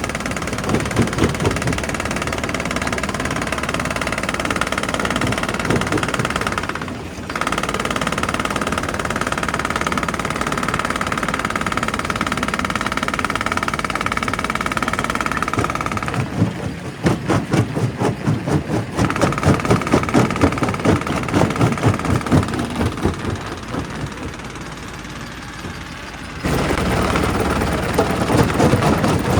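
Quarry primary rock crusher running, a heavy engine drone with a steady whine and rapid knocking. The sound changes abruptly three times as the footage cuts between clips.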